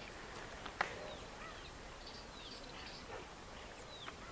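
A bird calling in short whistles that slide down in pitch, about one every second and a half, over a steady outdoor hiss. A single sharp click comes about a second in.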